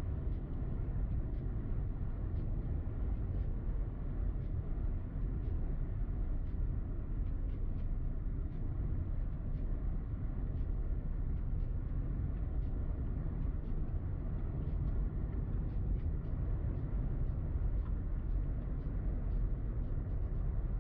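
Steady low rumble of a car driving: road and engine noise, with faint scattered ticks.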